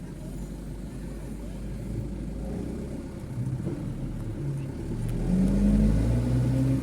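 Mitsubishi Fuso truck's diesel engine running, heard from inside the cab: a low rumble that revs up in the second half, rising in pitch and getting louder toward the end as the truck accelerates.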